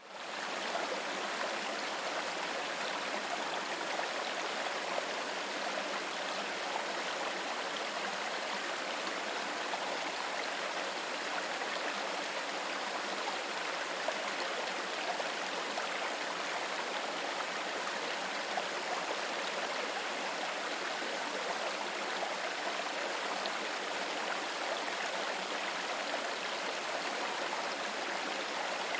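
Running water flowing steadily with an even rush, fading in from silence at the very start.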